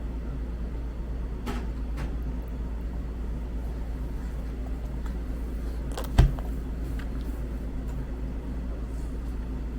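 Steady low hum with a few light clicks, and one sharp knock about six seconds in, typical of a spoon or dish striking a toddler's eating tray.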